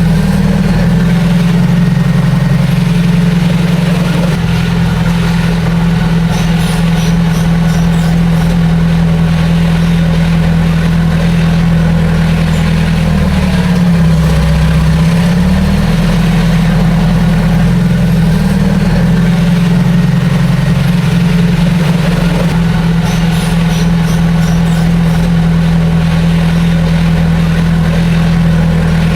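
Heavy earthmoving machine's diesel engine running steadily and loud, its speed dipping briefly about halfway through and then picking back up.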